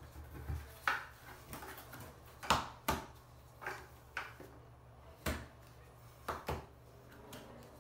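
Irregular short knocks and clacks, about eight in all and a second or so apart, with faint scraping in between: hand tools and building materials being handled and set down during tile work.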